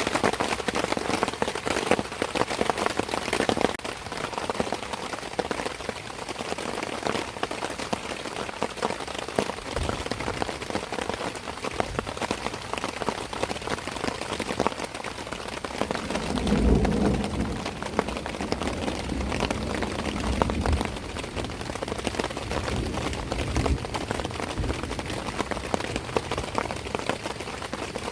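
Steady rain falling, with many distinct close drop hits. A low rumble swells briefly about two-thirds of the way through.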